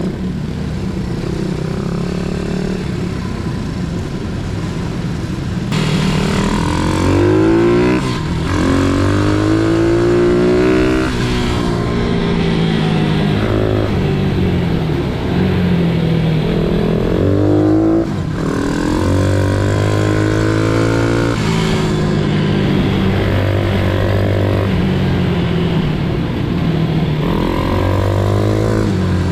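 Pit bike engines running hard, repeatedly revving up in rising sweeps and dropping back off the throttle, over the steadier drone of another engine.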